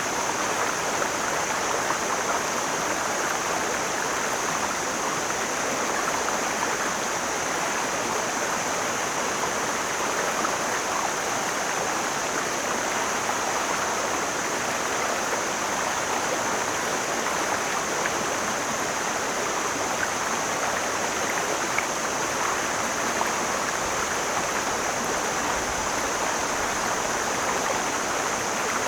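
Mountain stream flowing steadily, a continuous rushing of water.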